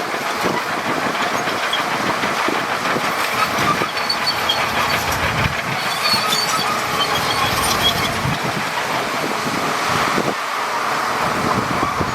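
Crawler bulldozer working: its diesel engine running steadily under the clank of its steel tracks, with faint high squeals from the track running gear.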